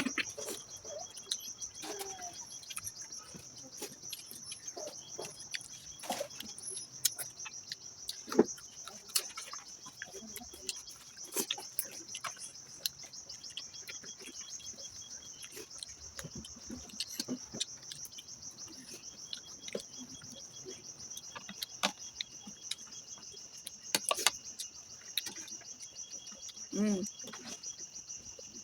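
Mukbang eating sounds: scattered short clicks and smacks of chewing and handling food, over steady high-pitched insect chirring. A brief low pitched sound comes near the end.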